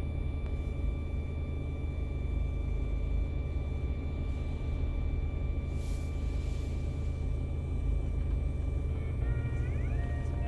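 Steady high-pitched whine from a BMW 320d's car audio system, one constant tone with several overtones, over the low rumble of the car's diesel engine running. The whine is the audio system's high-frequency noise fault.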